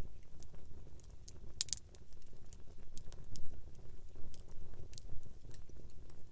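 Wood campfire crackling, with scattered sharp pops and snaps over a low steady rumble of the burning fire. A louder cluster of pops comes about a second and a half in.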